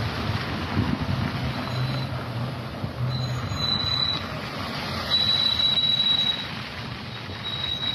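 A steady rumble with a high-pitched squeal that comes and goes several times, each squeal lasting about a second.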